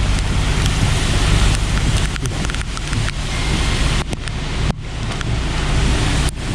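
Heavy rain falling steadily, with a low steady engine hum underneath.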